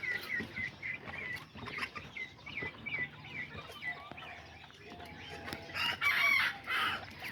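Kikiriki bantam chickens calling: a quick run of short, high, repeated cheeps over the first few seconds, lower clucks later, then a loud rooster crow about six seconds in, the loudest sound.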